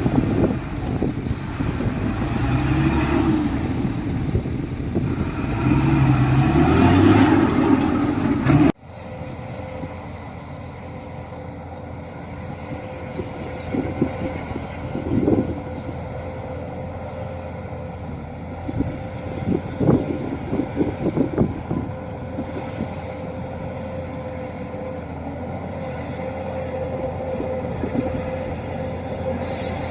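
Heavy diesel machinery working: an engine running loud and changing pitch under load, then, after an abrupt cut, a steadier engine hum with a held whine and scattered clanks.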